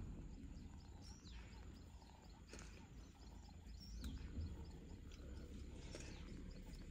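Faint bush ambience: a bird calling in a quick series of short high chirps, about four a second, over a low steady rumble.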